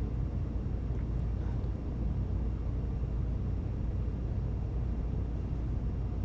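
Steady low rumble of a running vehicle, with a light hiss above it.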